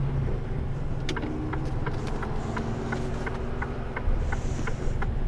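Diesel engine of a Mercedes-Benz Antos 1824 lorry running low, heard inside the cab, with the turn indicator clicking steadily at about two to three clicks a second.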